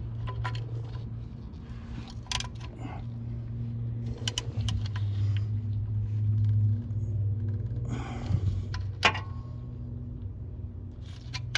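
Scattered metal clicks and clinks of a socket wrench as the oil drain plug is snugged down, over a steady low hum.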